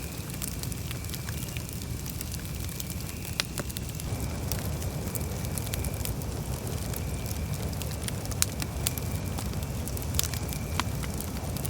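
Campfire burning: a steady low rumble of the flames with frequent sharp crackles and pops from the burning wood, a few louder pops standing out.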